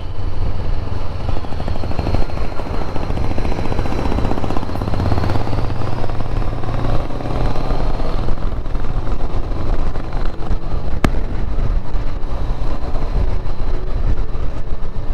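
Motorcycle running steadily on the road, a continuous low engine rumble under a rush of road and wind noise. A single sharp click about eleven seconds in.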